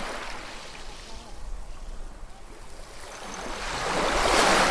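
Ocean waves breaking and washing up on the shore. A small wash comes in at the start, then a larger wave builds from about three seconds in and breaks loudest near the end.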